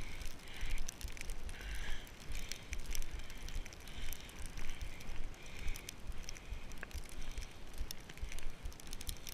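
Gusting wind buffeting the microphone with a low rumble. Over it come crunching footsteps in snow, a little more than one step a second.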